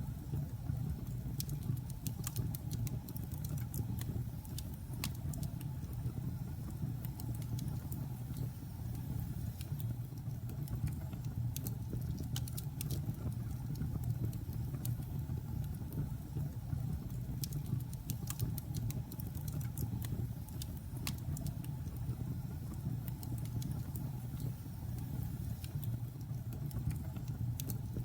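Wood fire burning in a fireplace: a steady low rumble of the flames with frequent sharp crackles and pops from the logs, scattered irregularly.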